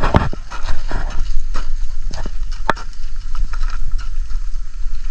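Footsteps scuffing and clicking irregularly on a rough road while walking, over a steady low rumble.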